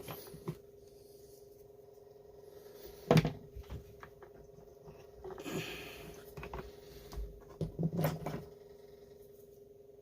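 Small parts and tools handled on a workbench during a chainsaw carburetor and fuel-line repair: a sharp knock about three seconds in, a short rustle, then a cluster of knocks and clatters near the end, over a steady hum.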